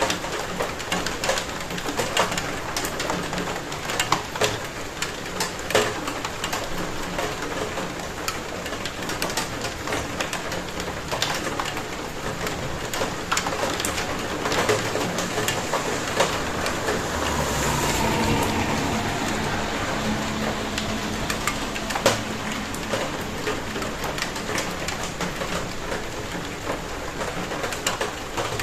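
Steady rain falling, with many separate drops striking a nearby surface as sharp clicks over the hiss. Just past the middle a lower sound swells for a few seconds under the rain.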